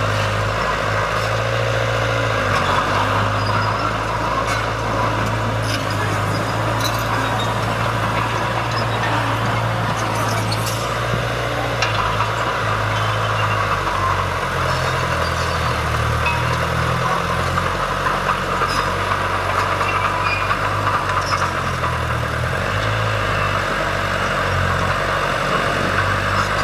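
Heavy earthmoving machinery's diesel engine running steadily, its low note changing about halfway through.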